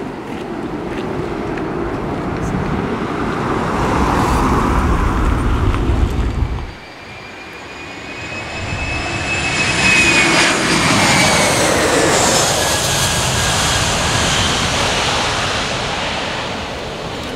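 A heavy low rumble that cuts off suddenly about seven seconds in, then a jet airliner passing low overhead: its engines swell to a loud peak with a high whine that falls in pitch as it goes by, then fade.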